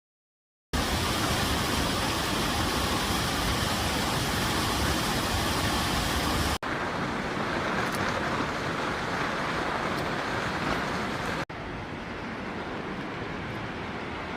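Steady roar of a waterfall, in three clips cut together: after a moment of silence it starts loud, then cuts about six and a half seconds in and again about eleven and a half seconds in, each later clip quieter and duller.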